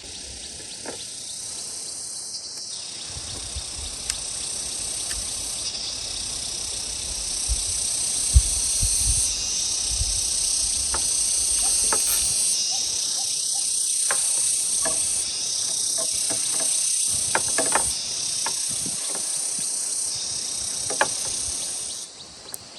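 Steady, high-pitched chorus of insects buzzing, its level stepping up and down every few seconds, with scattered light clicks and knocks over it.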